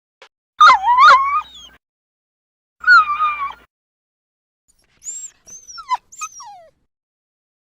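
Dog whimpering and yipping: two high, whiny calls that waver in pitch, the first longer. Near the end come a few fainter, quick high-pitched calls that slide downward.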